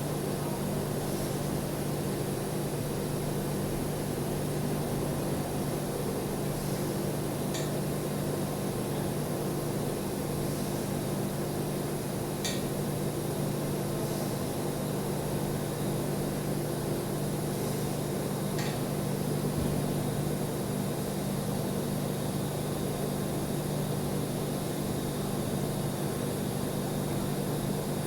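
Steady hiss and hum of a welding arc on stainless steel pipe, held without a break, with a few faint ticks.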